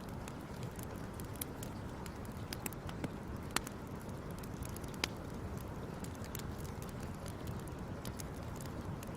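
Fire crackling: a steady low rushing with irregular sharp pops and snaps, the loudest about three and a half and five seconds in.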